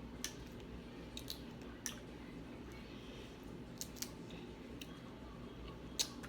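Snow crab shell being cracked and picked apart by hand: a few faint, sharp clicks and snaps at irregular intervals, the loudest near the end.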